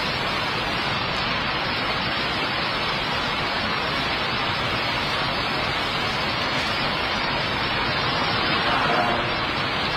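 Heavy typhoon rain and wind: a steady rushing downpour that swells briefly near the end.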